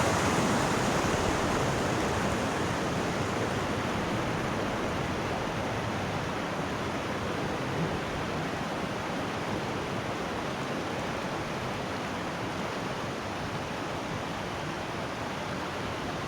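Waterfall, a steady rush of falling water that fades slowly.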